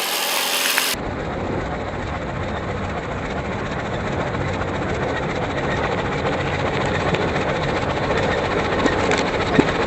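Tractor engine running steadily, with a sharp crack near the end.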